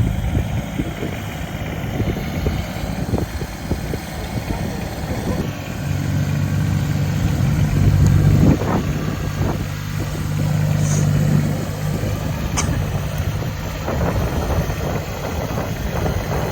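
Kubota compact tractor's diesel engine running, getting louder and working harder from about six seconds in until near the end as it strains to lift a heavy stump.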